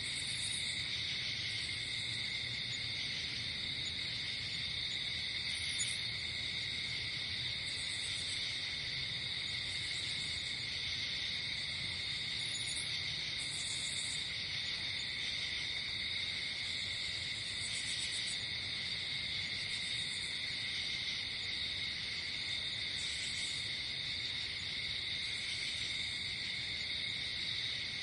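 Night insect chorus of crickets: a continuous trilling at two pitches, with short, higher-pitched chirps breaking in every second or two.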